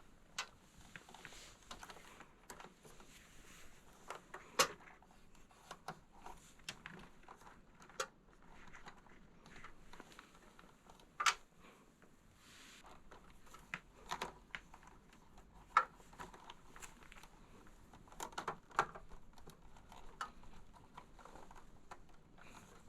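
Irregular small clicks, taps and knocks of hard plastic and metal parts being handled while working on a desktop computer, with a few sharper knocks among them.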